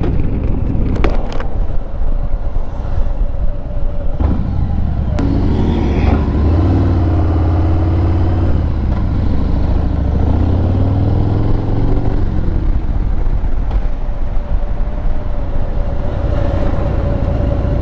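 Motorcycle engine running under way, with a heavy low rumble of engine and wind noise on a helmet-mounted microphone. About midway the engine note rises and falls in pitch as the speed changes.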